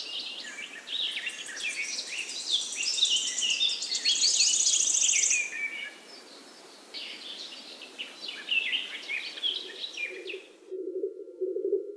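Songbirds singing: a dense run of varied chirps and whistles, with a fast high trill about four seconds in. Near the end the birdsong cuts off suddenly and a low steady hum takes over.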